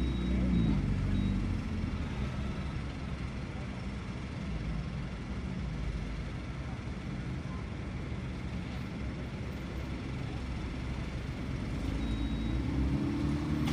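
Car engine and road noise heard from inside the cabin, a steady low rumble. The engine note drops about a second in and climbs again near the end, as if slowing and then speeding up.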